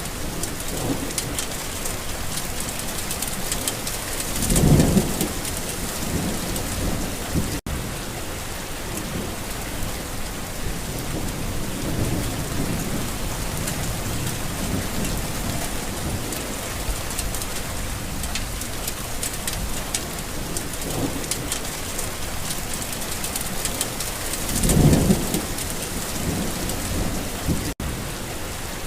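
Steady rain falling on a garden, with thunder rumbling low in the background: two louder rolls of thunder, one about five seconds in and one near the end, and fainter rumbles between.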